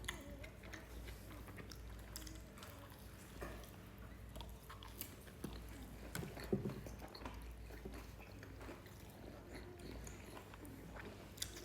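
Faint chewing and biting of vegetable pizza close to the microphone, with scattered small mouth clicks over a low steady room hum.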